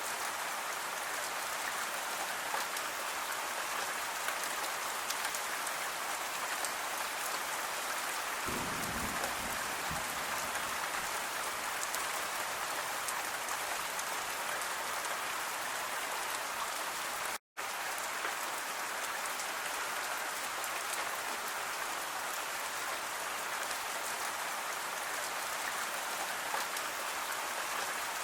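Steady rain falling, an even pattering hiss, with a brief low rumble about a third of the way in. The sound cuts out completely for an instant a little past halfway, then resumes unchanged.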